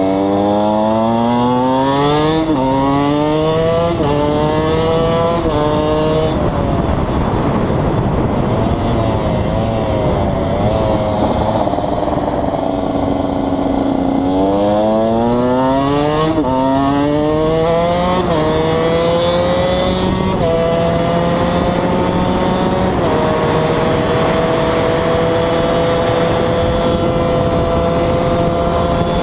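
KTM 125 EXC's single-cylinder two-stroke engine accelerating hard up through the gears, its pitch climbing and dropping back at each upshift, three quick shifts early on and four more in a second run. In between it runs at wavering lower revs, and over the last few seconds it holds a steady pitch at cruising speed.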